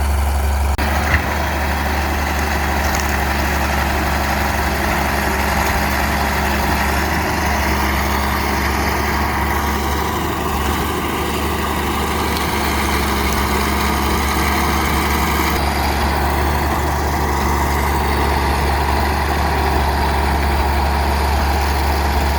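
Bulldozer's diesel engine running steadily with a deep, even hum, with one sharp click about a second in.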